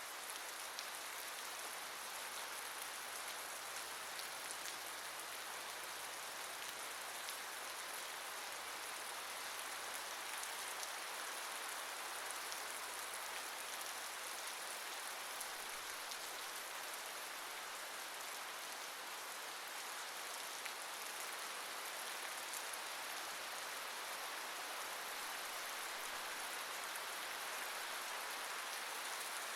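Steady rainfall hissing, with the patter of drops on a surface.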